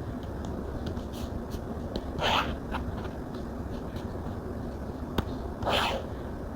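Stylus tapping and writing on a tablet screen: scattered small ticks, a sharper click about five seconds in, and two brief swishes about three and a half seconds apart, over a steady low hum.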